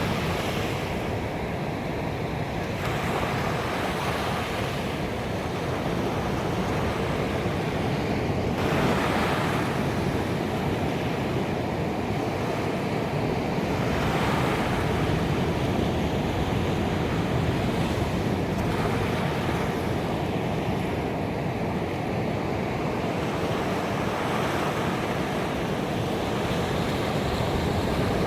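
Ocean surf washing onto a beach: a steady rush of breaking water that swells as a new wave comes in, every five seconds or so.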